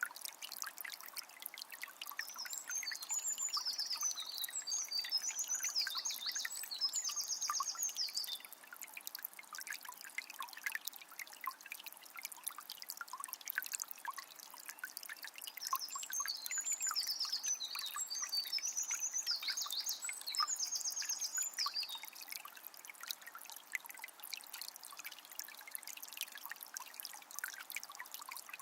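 Small spring trickling and splashing steadily. A songbird sings two bouts of rapid, high repeated notes over it, a couple of seconds in and again around the middle, each lasting about six seconds.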